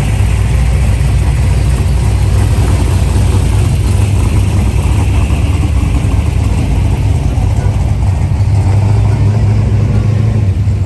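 Car engine running steadily with a deep, low sound.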